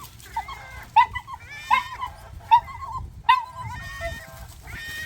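Animals calling: a series of short, sharp cries about every second, with a few longer, higher-pitched calls among them.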